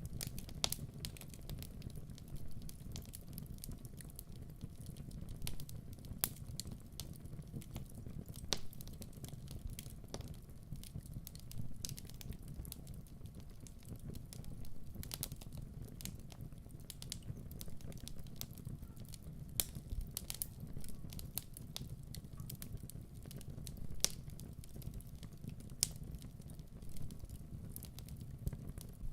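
Wood fire crackling in a fireplace: irregular sharp pops and snaps over a low, steady rumble of the burning.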